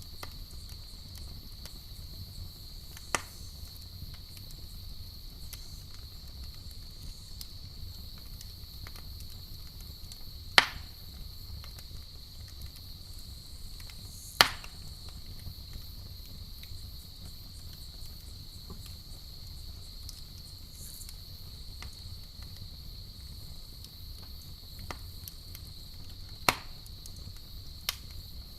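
Campfire burning with a handful of sharp wood pops and crackles, the two loudest near the middle, over a steady high chirring of crickets.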